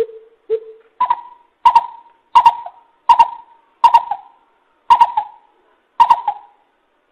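Greater coucal hooting as a trapping lure call: two short low hoots, then a run of seven higher hoots about two-thirds of a second apart, spacing out slightly toward the end.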